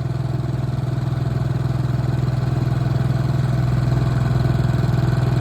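A 7 hp four-stroke outboard motor running steadily at a cruising throttle with a constant low drone. It is being held below full speed while it is broken in.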